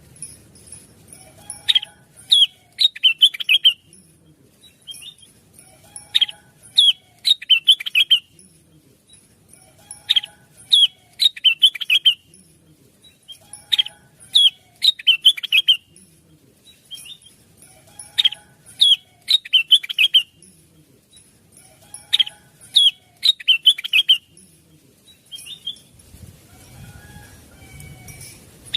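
Blue-winged leafbird (cucak wilis) singing: a phrase of quick, sharp, falling notes, repeated about every four seconds six times, then fading to faint calls near the end.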